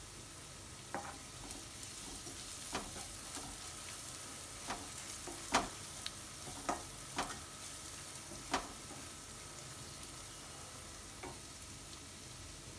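Chopped onions and ground spices sizzling in hot oil in a metal kadai. A wooden spatula stirs them, knocking sharply against the pan several times.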